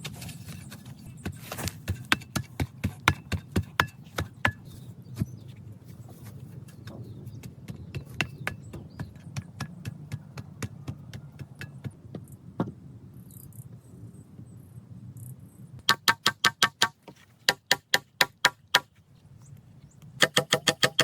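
Irregular sharp knocks and clicks over a low steady hum, then, near the end, two runs of fast, evenly spaced knocking with a ringing tone, about six strokes a second.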